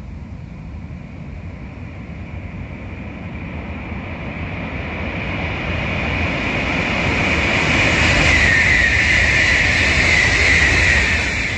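Shinkansen bullet train passing at speed: a rushing noise builds steadily for about eight seconds, peaks with a high whine, then drops suddenly near the end.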